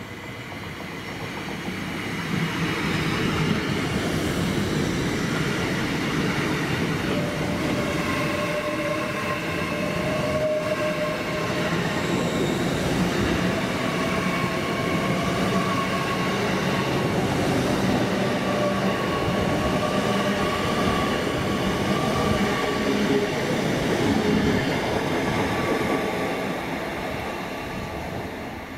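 A train running past on the rails, its sound building over the first few seconds, holding steady for over twenty seconds, then fading away near the end, with a steady whine over the rumble of the wheels.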